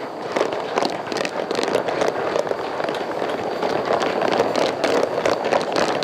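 Blower of a coal-fired live-steam model locomotive hissing steadily through the stack, with irregular crackles over it. The blower has been opened to draw the fire and raise falling boiler pressure.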